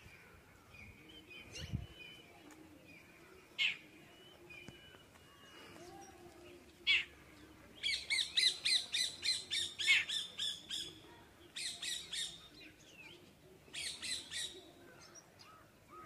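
Birds chirping: a few single sharp calls, then rapid runs of chirps at about four or five a second, in three bursts during the second half.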